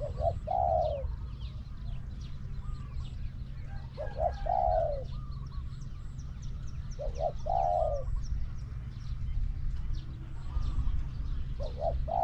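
Spotted dove cooing: a repeated phrase of two short notes and a longer falling coo, given four times about every four seconds. Faint high chirps of small birds come between the phrases.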